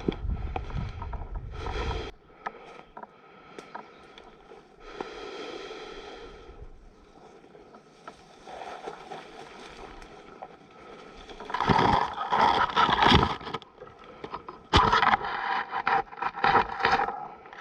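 Scraping and rustling of movement close to the microphone, with louder spells of irregular knocks and rustle about two-thirds of the way in and again near the end.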